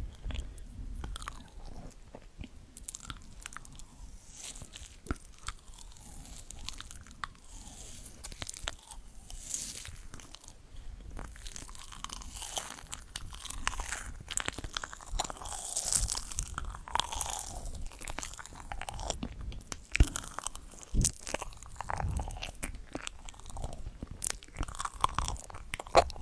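Close-miked crunchy eating: repeated bites and chewing with dense, irregular crackles, for ASMR.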